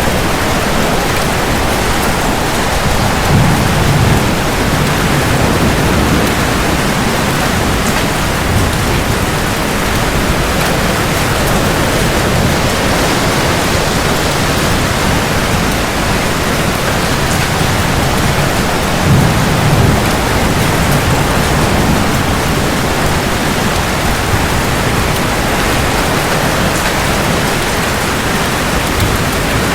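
Steady heavy rain with two low rolls of thunder, one a few seconds in and another about twenty seconds in.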